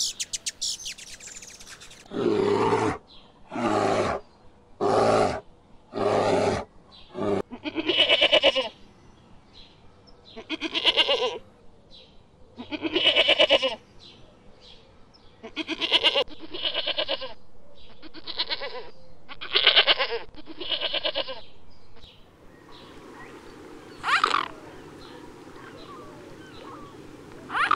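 An animal calling over and over: four short calls about a second apart, then a run of longer calls with short pauses between them.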